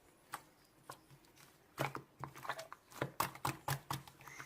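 Irregular handling noises: scattered clicks and crinkling, sparse at first and coming thicker from about two seconds in.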